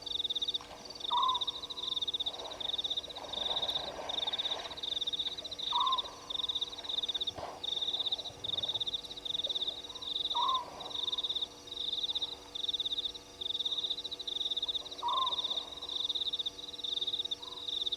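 Night chorus at a waterhole: a high, pulsed trill from frogs or insects comes in bursts of about a second, repeating without a break. A short lower call rises and falls about every four and a half seconds, over a faint steady hum.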